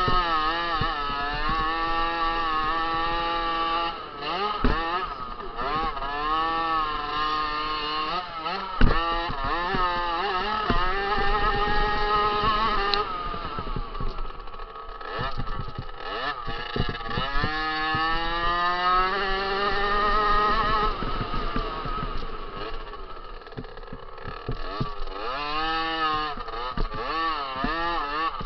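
Two-stroke 50cc motocross bike engine revving hard, its pitch repeatedly climbing and dropping with throttle and gear changes, with two sharp thumps about 5 and 9 seconds in.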